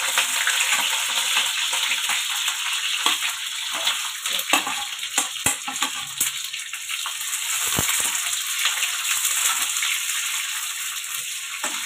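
Green bell pepper (capsicum) pieces sizzling and crackling in hot oil in a pan, with a few sharp knocks and scrapes of a steel spatula against the pan.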